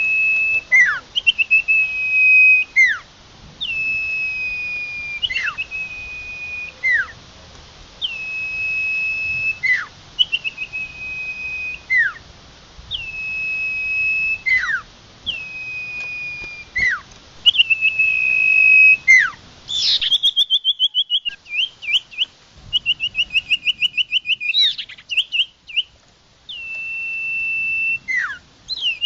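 Common iora (cipoh) calling: a long, level whistle that drops into a quick downward slur, repeated about every two seconds. About two-thirds of the way in, the calls change to rapid trilled notes at the same pitch, with one more long whistle near the end.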